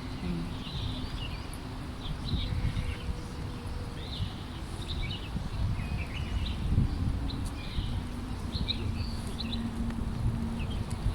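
Birds chirping, many short calls scattered throughout, over a steady low background rumble.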